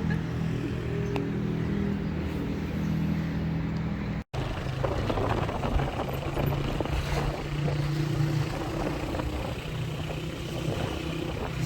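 Motorcycle engine running steadily, cut off abruptly for a moment about four seconds in. After the cut it runs on under rougher road and wind noise.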